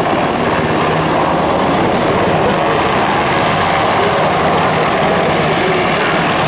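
Sikorsky UH-60 Black Hawk helicopter, its twin turboshaft engines and rotors running loud and steady, with the rapid beating of the rotor blades.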